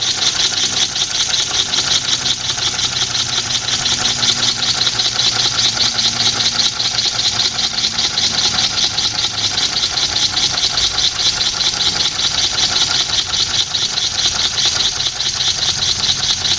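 Small Weeble wobble-plate axial air engine running steadily and slowly on barely any air pressure, with no flywheel: an even, fast pulsing hiss of exhausting air with light mechanical knocking.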